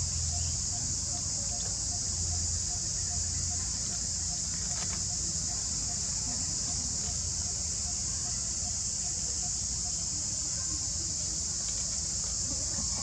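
Outdoor insect chorus: a steady, unbroken high-pitched shrill, with a faint note repeating at an even pace beneath it and a low hum.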